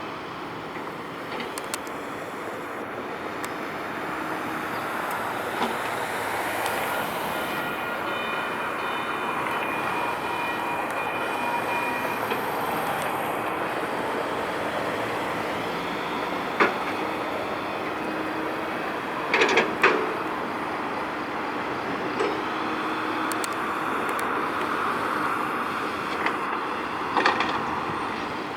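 Sacramento Regional Transit light rail train running on the track: a steady rumble of wheels on rail with a few sharp clicks, including a quick cluster about twenty seconds in, and a faint high whine in the middle stretch.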